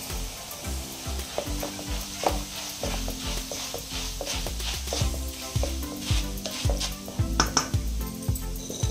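Flattened rice (poha) for chivda sizzling in hot oil while it is stirred in the pan, with frequent clicks and scrapes of the stirring spoon.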